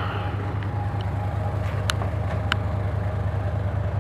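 Motor yacht's engines idling at the dock with a steady low hum, with two short high-pitched sounds about halfway through.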